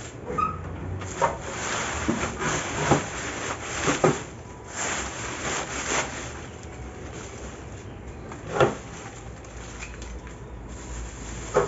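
Irregular scraping and knocking of yard cleanup, roughly one knock every second or so, two of them louder, about four seconds in and again near nine seconds.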